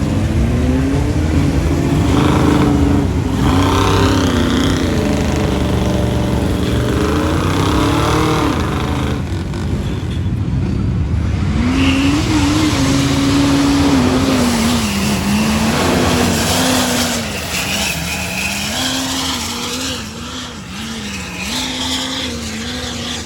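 Mud truck's engine running at high revs, its pitch rising and falling again and again as the throttle is worked, over a steady rushing noise.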